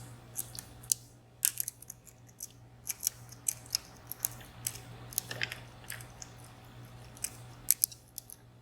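Irregular small metallic clicks and scrapes of a dimple pick and tension wrench working the pins of a VSR three-row, 14-pin dimple lock, with a steady low hum underneath.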